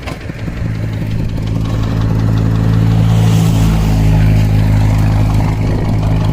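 Two-wheel walking tractor's engine running, growing louder over the first two seconds and then holding steady.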